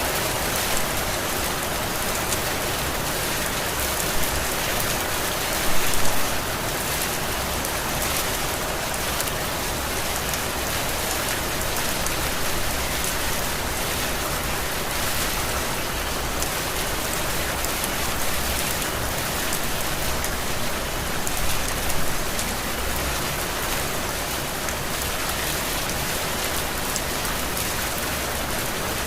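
Heavy rain falling steadily, an even hiss of drops on surfaces, with a few brief louder spatters about 4, 6 and 22 seconds in.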